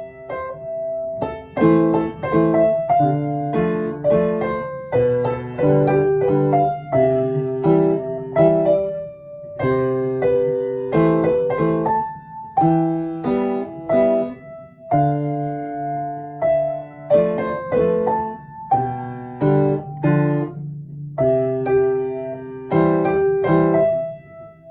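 Solo piano playing a melody over chords, with notes struck in steady phrases.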